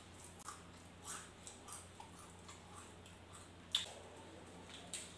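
Faint mukbang eating sounds: a person chewing with soft mouth smacks and a few scattered clicks, one sharper click a little before four seconds in, over a low steady hum.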